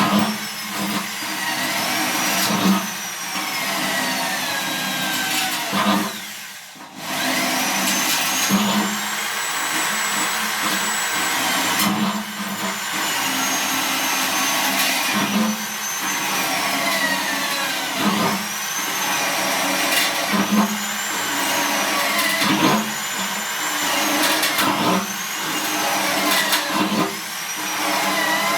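Electric drill with a small bit boring holes through a steel drum, its motor whine rising and falling in pitch every couple of seconds as the bit bites and frees. The drill stops briefly about six and a half seconds in, then runs again.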